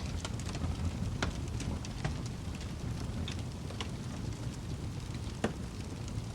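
Wood fire burning in a fireplace: a steady low rumble of flames with scattered crackles and pops, the sharpest pop about five and a half seconds in.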